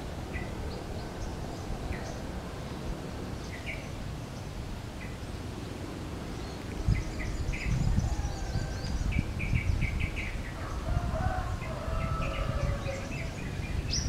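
Wild songbirds giving short, scattered chirps, with quick runs of chirps in the second half. A low rumble comes in about halfway.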